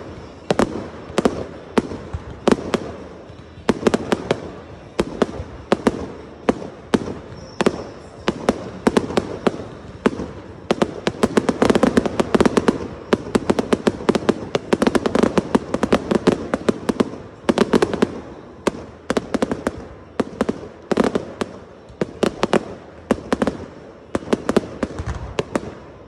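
Fireworks display: aerial shells bursting in a dense, continuous barrage of bangs, several a second, over a bed of crackling.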